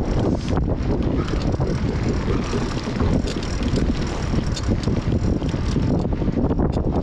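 Wind noise buffeting the microphone of a camera on a moving bicycle, a steady low rumble, with a few faint clicks and rattles from the bike.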